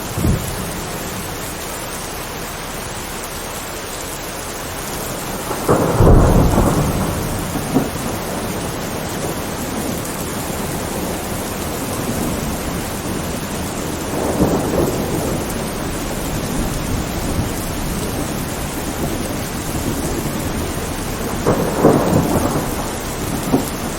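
Steady rain falling, with rolls of thunder rumbling over it: a loud roll about a quarter of the way in, a softer one around the middle, and another loud one near the end.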